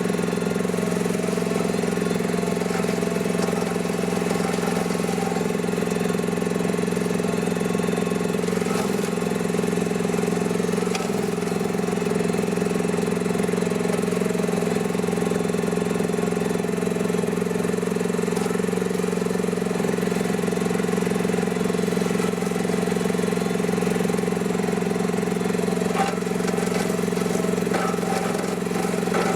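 Mini excavator engine running at a steady speed while it drives a homemade hydraulic brush mower.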